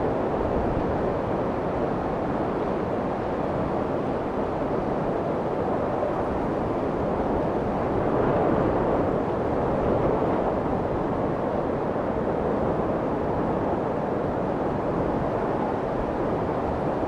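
Steady white noise for soothing a baby, a soft even rushing hiss weighted toward the low and middle range, swelling slightly about halfway through.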